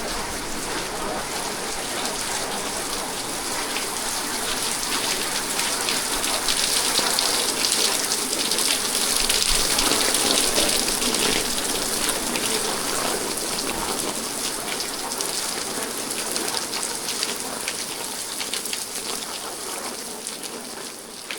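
Rain falling steadily, a dense patter of drops that grows louder a few seconds in and eases off again.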